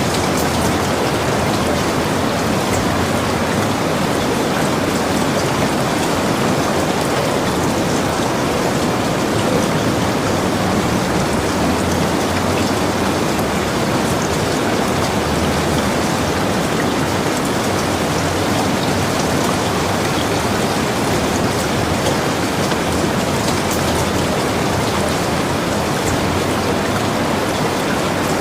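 Steady rain falling on surfaces, a constant even hiss with scattered drop ticks.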